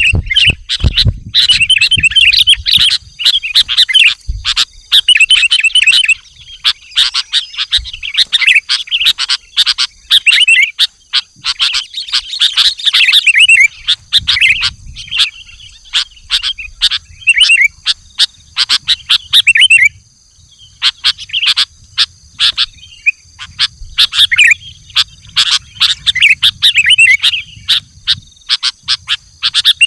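Sooty-headed bulbul singing energetically in quick, repeated chattering phrases, with a short pause about twenty seconds in. A lure call used to attract wild bulbuls.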